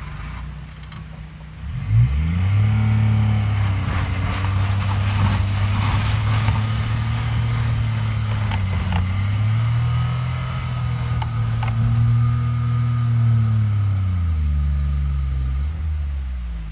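Kei-truck micro camper's 660 cc engine revving up and down under load as the 4WD camper, diff lock on and chains fitted, works back and forth in hard, rutted snow. The revs jump about two seconds in, rise and fall several times with scattered clicks and knocks from the wheels, and fall away near the end. The body is grounding on the raised snow between the ruts and the tyres are spinning.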